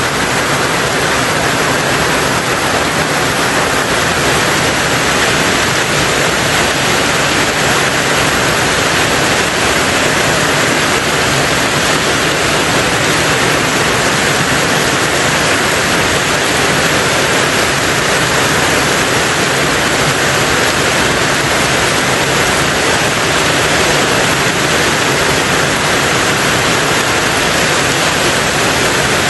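Rain falling steadily on a tin roof: a dense, even hiss with no single drops standing out.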